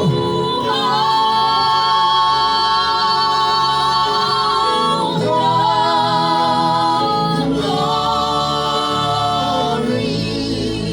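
Gospel singing: voices holding three long, slow notes with vibrato, each a few seconds, over soft accompaniment.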